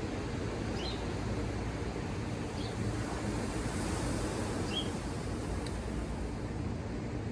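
Ocean surf washing ashore in a steady rush, swelling slightly around the middle. A few faint, short, high chirps sound over it.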